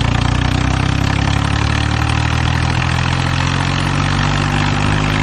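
Truck engine sound running steadily with a low, even pitch: the engine noise played for the toy dumper truck as it is driven along.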